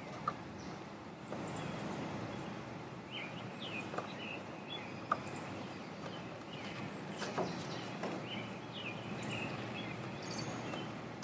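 Small birds chirping in short, scattered calls over a steady background hiss, with a few light clicks now and then.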